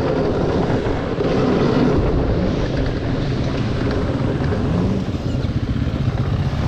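Dirt bike engine running under way, its revs rising briefly a couple of times, with wind buffeting the microphone.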